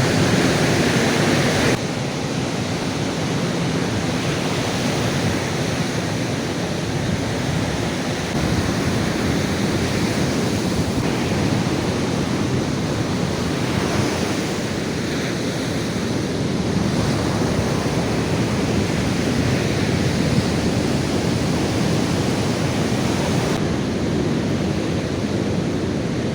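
Steady wind noise on the microphone mixed with ocean surf washing onto a beach: an even rushing hiss that shifts abruptly in character about two seconds in and again near the end.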